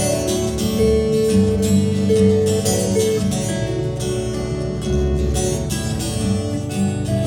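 Live instrumental break between verses of a country-folk song: strummed acoustic guitar with a held melody line over it.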